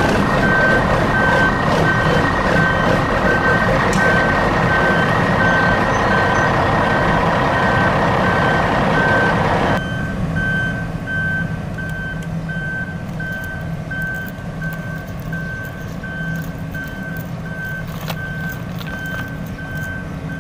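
Vehicle reversing alarm beeping at an even pace over a low engine rumble; a louder engine-like noise under it stops about ten seconds in.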